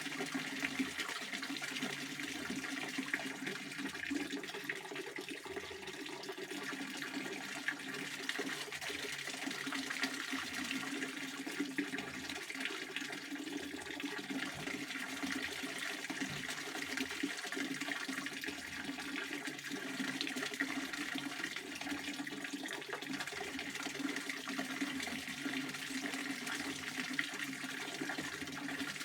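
Pond water fountain splashing: a steady, unbroken rush of falling water.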